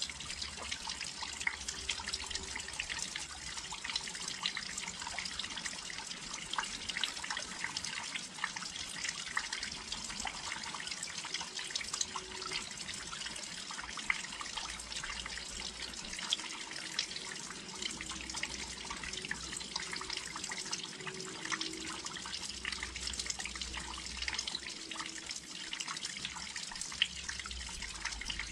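Steady rain falling close to a windowsill, many individual drops ticking and splashing over an even hiss.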